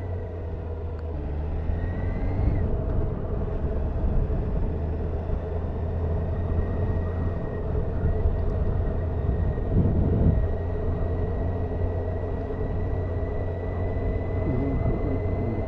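Honda CBF motorcycle engine running steadily on the move, a low hum under road and wind noise, with a brief swell about ten seconds in.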